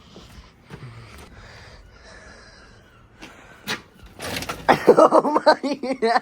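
A person breaking into breathy, gasping laughter for the last two seconds, after a few quiet seconds broken by a single sharp click.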